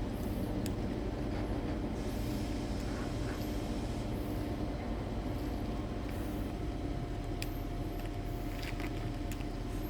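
Diesel train engine running steadily: a low, even hum with a faint steady whine and a few light clicks.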